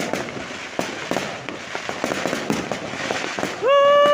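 Rapid, dense crackling pops of fireworks going off. Near the end a loud held tone cuts in, rising briefly at its start and then holding steady.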